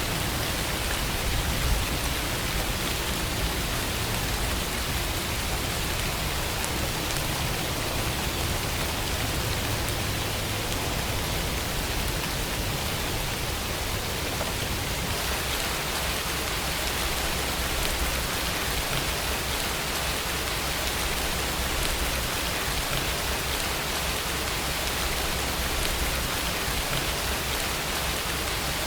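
Steady rainfall, an even hiss of rain coming down without letting up.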